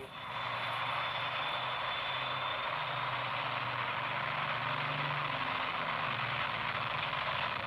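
Jet engine running steadily: an even rushing noise with a faint high whine that fades out about three seconds in.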